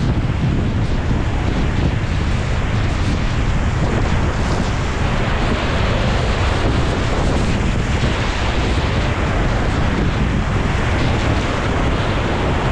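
Whitewater rapids rushing: a loud, steady noise of churning river water, with wind buffeting the microphone.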